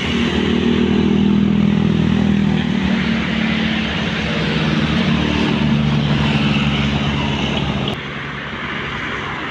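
A motor vehicle's engine running close by as it passes on the road, with tyre and road noise. About eight seconds in, the engine sound drops off abruptly.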